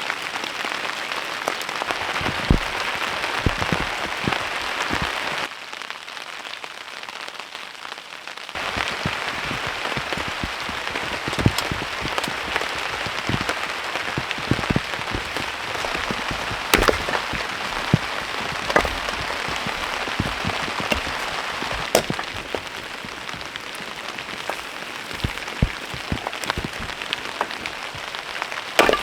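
Heavy rain falling on a tarp: a steady hiss with frequent sharp, loud drop hits. It turns quieter for about three seconds some six seconds in, then comes back at full strength.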